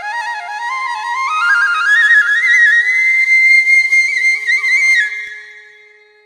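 Background music: a solo flute melody that climbs in quick ornamented steps to a long high note, then fades out about five seconds in, over a faint steady drone.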